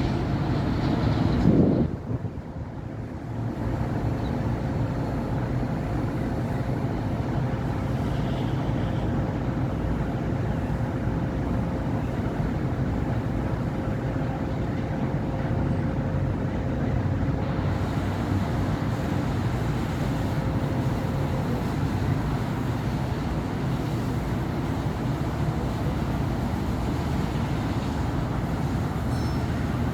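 City avenue traffic: a steady rumble of cars and buses, with one vehicle passing close and loud in the first two seconds. A faint steady hum runs through the traffic from about two seconds in until about two-thirds of the way through.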